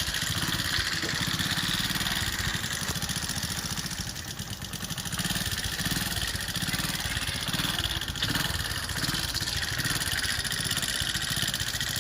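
TVS XL 100 Heavy Duty moped's small single-cylinder four-stroke engine running at idle with an even, rapid pulsing. It carries an engine noise that the mechanic suspects comes from either the timing chain or the tappets.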